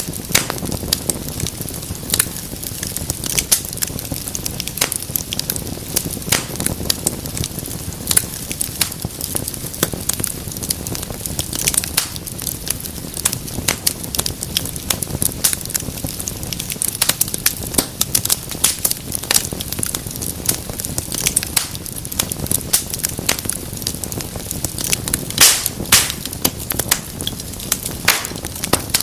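Wood fire crackling in a fireplace: a steady low rumble of flame with frequent sharp snaps and pops, two of them louder about 25 seconds in.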